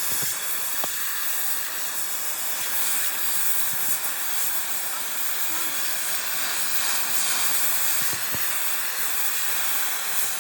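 A steady, even hiss, with a few faint knocks.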